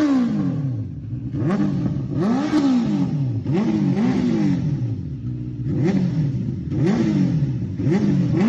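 Benelli TNT 600 inline-four engine, fitted with an SC Project aftermarket exhaust, being blipped repeatedly: the revs rise and fall about once a second.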